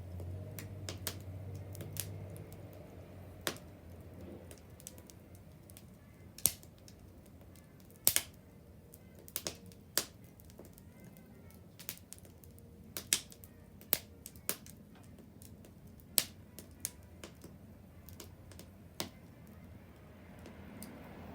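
Wood fire crackling, with sharp pops and snaps at irregular intervals over a low steady hiss.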